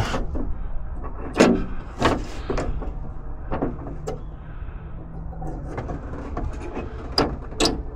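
Scattered light clicks and knocks of needle-nose pliers and a small keeper clip on a door latch rod inside a Jeep door, over a steady low hum.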